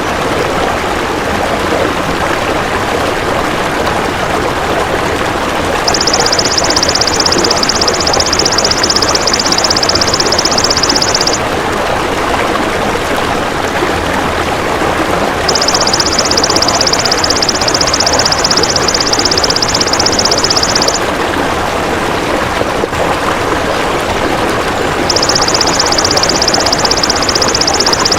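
Belalang emas insect trilling in three long bouts, each a high, fine, rapid buzz of about five seconds, with pauses of about four seconds between them, over a steady rushing noise.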